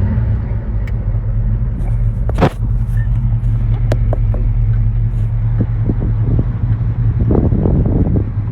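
A car's engine running steadily with a low drone, heard from inside the cabin while driving a manual-transmission car. A sharp click about two and a half seconds in.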